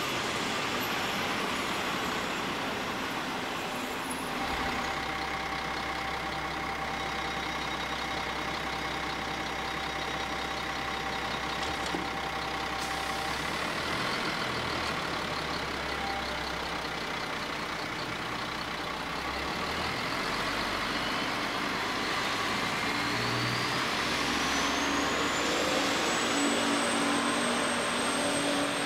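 Passenger train rolling slowly through a station, with a steady rumble and a few held tones. Near the end a high whine rises and then holds as a diesel railcar approaches.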